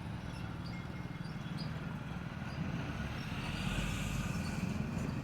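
Steady low outdoor rumble with faint, short high bird chirps scattered through it.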